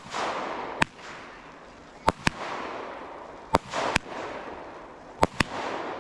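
Fireworks going off in a steady sequence: sharp bangs, some in close pairs, about every second and a half. Each bang is followed by a short hiss that fades away.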